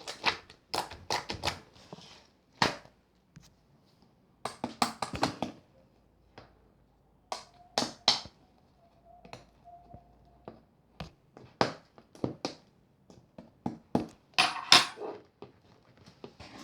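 Clear slime being pressed and poked by hand, giving irregular clusters of sharp, sticky clicks and pops with short quiet gaps between.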